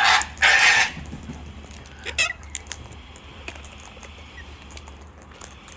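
Cockatoo screeching twice, harsh and loud, then a shorter squawk about two seconds in, with light scattered ticking and pattering after.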